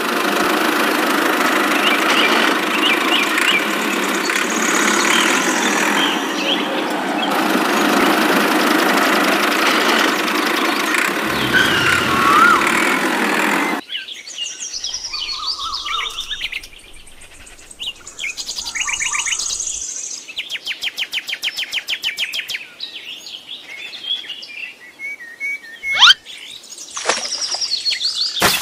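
A steady, engine-like mechanical running noise that cuts off abruptly about 14 seconds in, followed by birds chirping, with quick trills and a sharp whistled call near the end.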